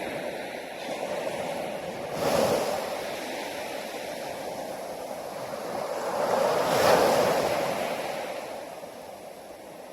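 Sea waves breaking and washing ashore. Two surges rise out of the steady rush, a short one about two seconds in and a bigger one around seven seconds, before it ebbs near the end.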